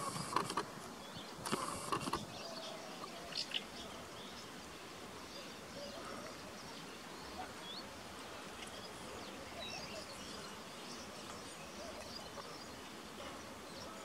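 Quiet open-air background with scattered faint, distant small-bird chirps. A few louder, brief noises come in the first two seconds.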